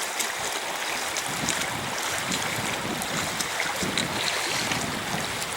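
A mountain stream rushing steadily, with irregular low rumbling from wind on the microphone.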